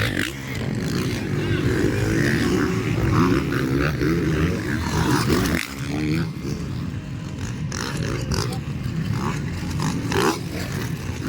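Motocross dirt bike engines revving hard, their pitch climbing and dropping with throttle and gear changes.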